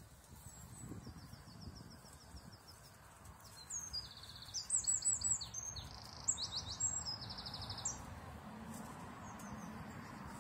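A songbird singing quick trilled phrases of rapidly repeated high notes, starting softly and loudest in the middle before stopping a couple of seconds before the end, over a low rumble of wind or handling.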